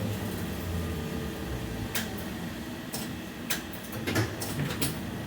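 Interior of a BKM 60102 tram standing at a stop: a steady low hum with a series of sharp clicks and knocks, starting about two seconds in and bunching up near the end.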